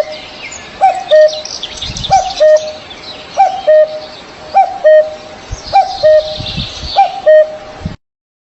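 Birds calling: a low two-part call repeats about every second and a quarter, seven times, over the higher chirping of small birds. The sound cuts off suddenly near the end.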